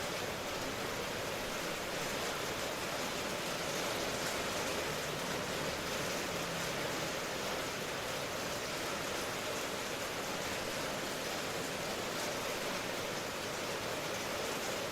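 Steady rain falling as an even, unbroken hiss, with no distinct drops, thunder or other events standing out.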